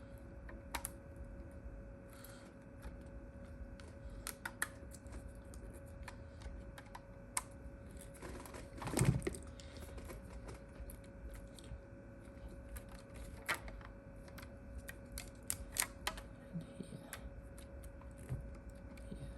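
Irregular small clicks and taps of rubber bands being stretched and snapped around a smartphone to clamp its glued back glass, with the phone handled on the bench; a louder burst of handling about nine seconds in, over a faint steady hum.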